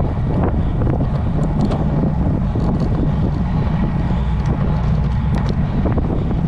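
Wind buffeting the microphone of a camera carried on a moving road bike: a loud, steady low rumble with a few faint ticks.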